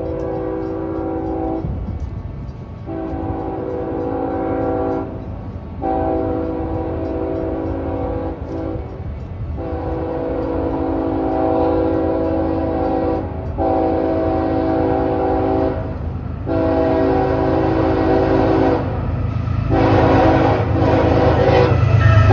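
Diesel freight locomotive's multi-chime air horn sounding about seven long blasts with short gaps, over the low rumble of the approaching train. The horn and rumble grow louder toward the end as the train nears.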